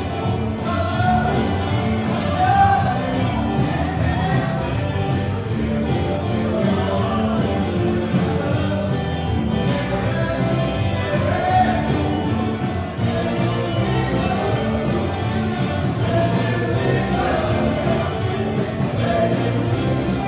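Live band playing a song with a sung lead vocal over a steady drumbeat.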